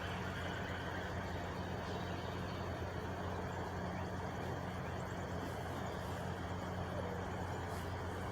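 Truck engine idling steadily: an even, low hum that does not change.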